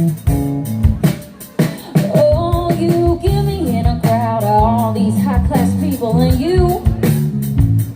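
A small band playing live, with bass notes and guitar under a sung melody that comes in about two seconds in.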